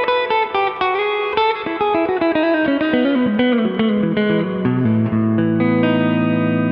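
Electric guitar played through a Fender Hot Rod Deluxe IV tube combo amp, clean channel with a bit of reverb: a run of quick single notes stepping down in pitch, then a chord left ringing from about five seconds in.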